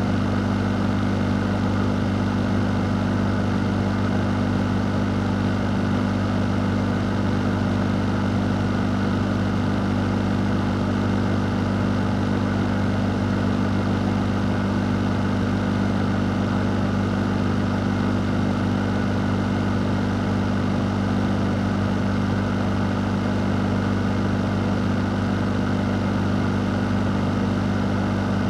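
A fan running steadily: an even rush of moving air over a low, constant motor hum, with no change in speed.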